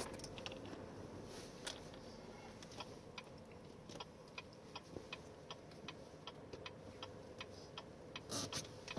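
Regular ticking, about three ticks a second, over a faint steady hum.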